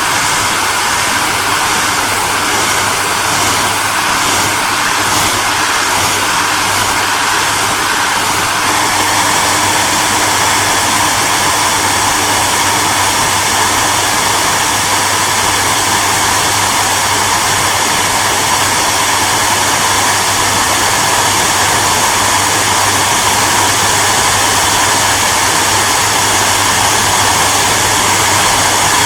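Hair dryer running steadily: a continuous rushing blow of air over a low motor hum. The tone shifts slightly and grows a little louder about nine seconds in.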